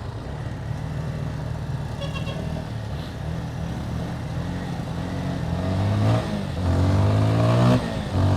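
Motorcycle engine under way, running steadily and then accelerating from about five seconds in, its note rising and getting louder. The note dips briefly near six seconds in and cuts back sharply near the end as gears are changed.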